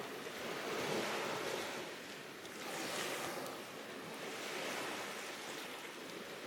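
Surf washing on a shore, a rushing noise that swells and fades in slow surges every couple of seconds.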